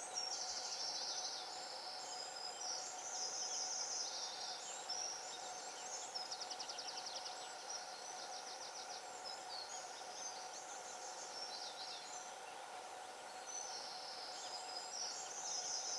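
Outdoor evening ambience: continuous high-pitched chirping and trilling calls from wild creatures, in overlapping phrases about a second long, some in rapid pulses, over a faint steady hum.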